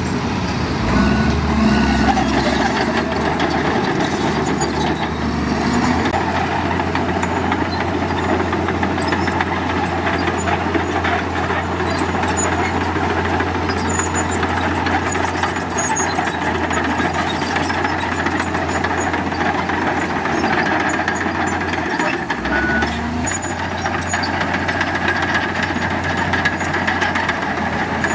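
Heavy diesel construction machinery running steadily with a low engine hum. A reversing alarm gives short beeps about a second and two seconds in, and once more near the end.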